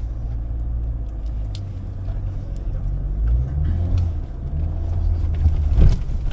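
A 2024 Jeep Wrangler's 2.0-litre turbocharged four-cylinder, heard from inside the cabin, pulling at low revs off-road. It makes a low rumble whose pitch rises and falls, with scattered rattles and a thump near the end.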